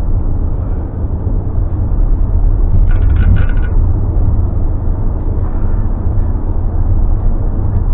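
Road and engine noise of a car being driven, heard from inside the cabin as a steady low rumble. A brief higher-pitched sound cuts in about three seconds in.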